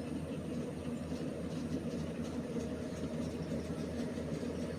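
Engine of a rice combine harvester running steadily.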